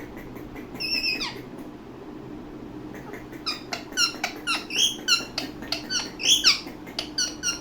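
Indian ringneck parakeet calling: one falling squawk about a second in, then from about three seconds a rapid run of short high squeaks, chirps and clicks.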